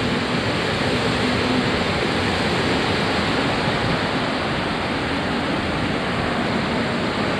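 Steady rushing noise from riding a bicycle: wind on the microphone mixed with the rolling noise of the tyres.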